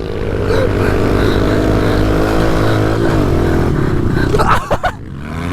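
Several pit bike engines running and revving together during a race, their pitch rising and falling as the riders work the throttles. A brief sharp clatter about four and a half seconds in.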